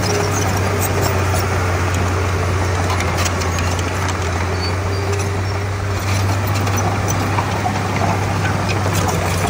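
Komatsu D31P bulldozer's diesel engine running steadily under work, a low even drone, with scattered light metallic clanks from the machine.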